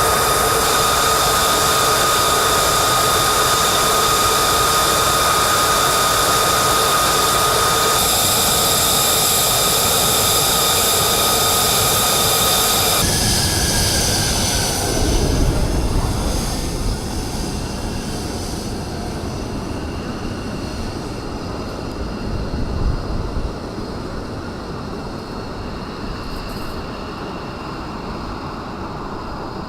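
F-35A Lightning II jet engine: a loud, steady turbine whine with high tones for the first half. After abrupt changes it becomes a lower rumble that surges twice and fades over the second half.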